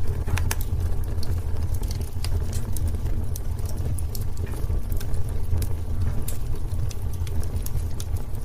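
Wood fire burning in a fireplace: a low steady rumble of the flames under frequent, irregular sharp crackles and pops.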